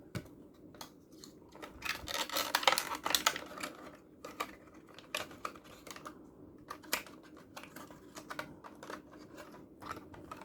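Small plastic toy cars and their plastic packaging being handled: scattered light clicks and taps with some rustling, busiest a couple of seconds in, then sparser.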